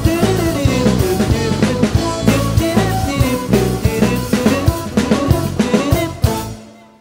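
Fusion band playing with a full drum kit, bass and pitched instruments, steady drum beats throughout. The music ends about six and a half seconds in, with a brief ringing tail.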